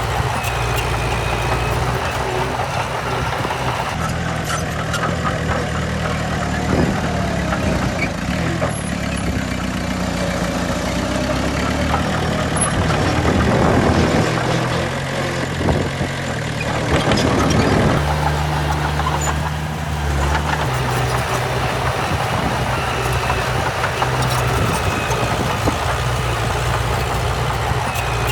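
Heavy diesel earthmoving machinery running steadily, its engine note shifting up and down, with louder surges about halfway through.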